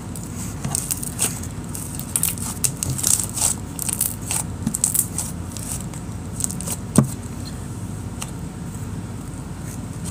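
Jelly cube slime, with magic eraser sponge cubes in it, being pinched and worked by hand: a run of small sticky crackles and clicks, thickest in the first half, with one sharper click about seven seconds in.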